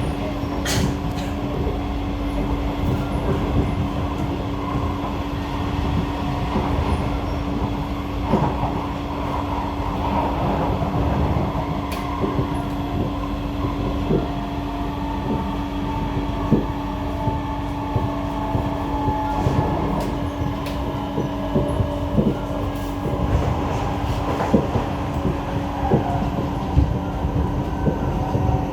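C151A metro train running between stations, heard from inside the car: a steady rumble with a constant hum and scattered clacks and clicks from the track. Faint wavering squealing comes and goes above it, the screeching these cars are known for.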